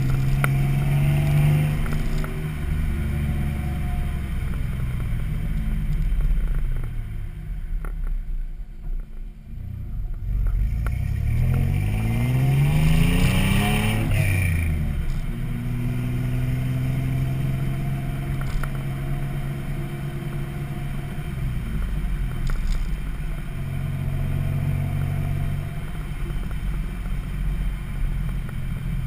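Exhaust note of a 1995 Toyota 4Runner's 3.4-litre 5VZ-FE V6, running through a Flowmaster 40 muffler and out a 4-inch pipe, deep and throaty. It quietens briefly, then rises in pitch as the engine revs up, drops off suddenly, and settles into a steady note.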